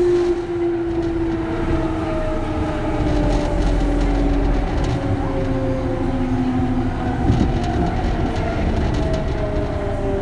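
Kintetsu 3200 series motor car's early Mitsubishi GTO VVVF inverter whining over the rumble and clatter of the wheels, heard inside the car: its growling tones fall steadily in pitch as the train slows, then jump up about eight seconds in and fall again. This is an odd-sounding early GTO inverter.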